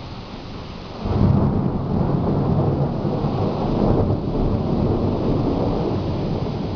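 Thunder during a heavy storm: a sudden loud peal about a second in, then a long low rumble that rolls on, over steady rain.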